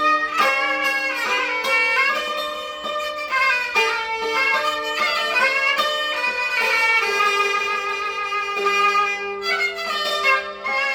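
Gaohu (Cantonese high-pitched two-string fiddle) and yangqin (hammered dulcimer) playing together: the gaohu's high bowed melody slides up and down between notes over the yangqin's quick hammered notes.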